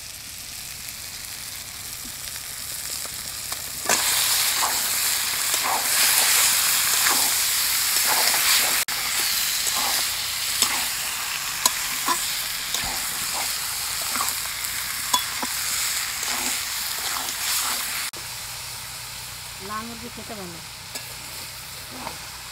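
Country chicken pieces sizzling in hot oil and fried spice paste in a wok, stirred with a metal utensil that knocks and scrapes against the pan now and then; the meat is being seared in the masala. The sizzling gets much louder about four seconds in and drops back near the end.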